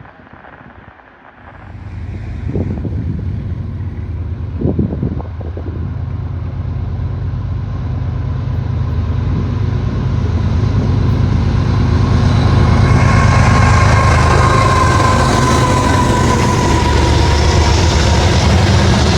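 A train approaching: a deep rumble starts about a second and a half in and builds steadily. A loud rush of wheels on rail grows over it toward the end as the train comes close.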